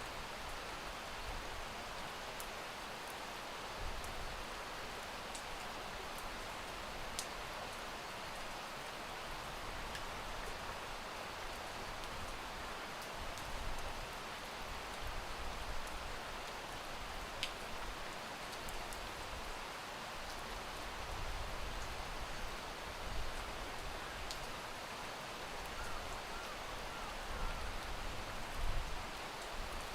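Steady rain falling, an even hiss with scattered sharp drop ticks and a few soft low swells.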